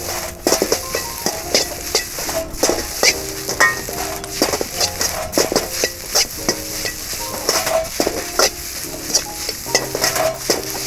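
Fried rice sizzling in a pan while a utensil stirs and tosses it, scraping and knocking against the metal many times over.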